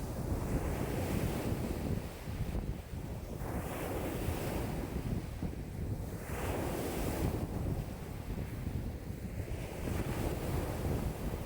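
Waves breaking and washing on a lake shore in a strong wind of about 5 m/s, with wind buffeting the microphone. The waves surge in every couple of seconds over a constant low rumble.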